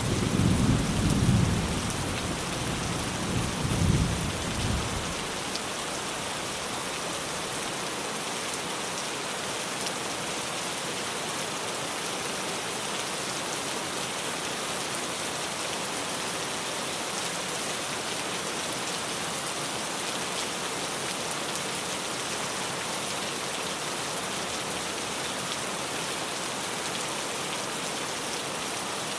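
Heavy rain falling steadily on a tin roof. A low rumble of thunder swells twice in the first five seconds and then fades, leaving the even hiss of the rain.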